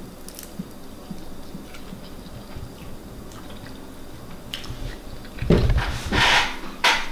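Quiet chewing of a bite of crispy fried vegan drumstick, with a few faint crunches. About five and a half seconds in, loud rustling and handling noise takes over for a second or two.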